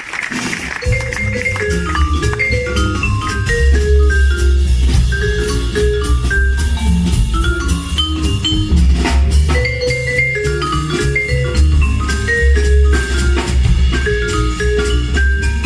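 Live jazz trio playing: marimba notes carry the melody over a double bass line and drum kit with cymbals. It starts about a second in as applause dies away.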